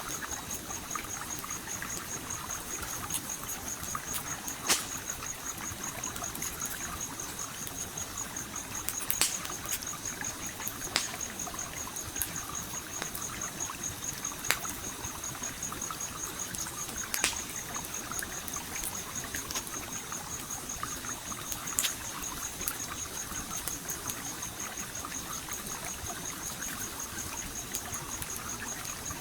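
A stream trickling and flowing steadily, with the occasional sharp pop of a crackling campfire every few seconds. A steady, high-pitched insect trill runs underneath.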